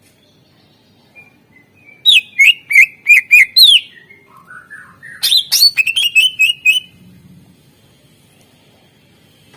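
Cucak ijo (greater green leafbird) singing: a run of loud, sharp, rapidly repeated whistled notes about two seconds in, a short lower warble, then a second quick burst of notes. The song is full of phrases copied from other birds.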